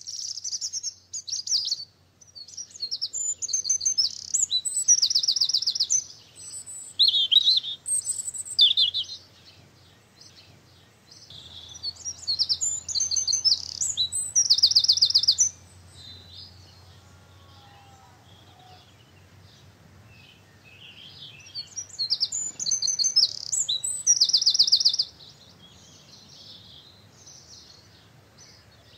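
A songbird singing loud, high song phrases that end in rapid trills, in three bouts with quieter pauses between them.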